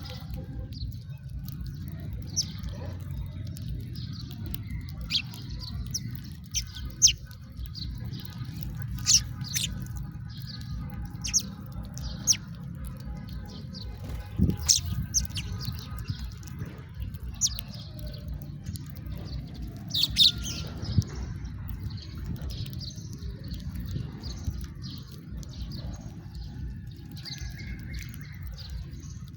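House sparrows chirping: short, sharp chirps at irregular intervals, several of them loud, over a steady low rumble.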